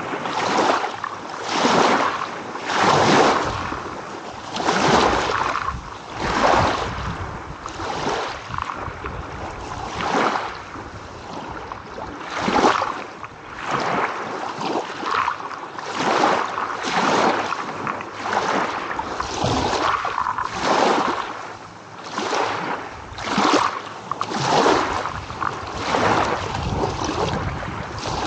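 Small ocean waves rolling in and washing back in quick succession, a surge of rushing water every second or two.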